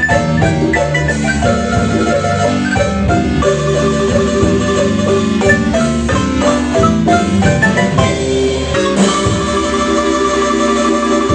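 Marimba music: mallets strike quick runs of bright notes over a steady bass line.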